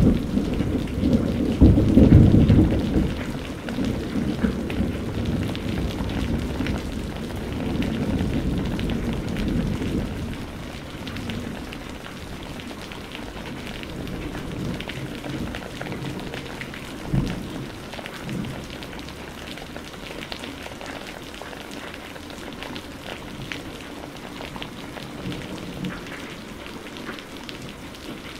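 Steady rain pattering, with a loud low thunder rumble at the start that rolls on and fades away over about the first ten seconds. A single short low thump comes about two-thirds of the way through.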